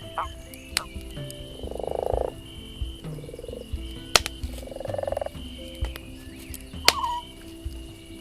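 Frogs croaking in three rattling bursts, with a few sharp campfire crackles between them; the crackles are the loudest sounds.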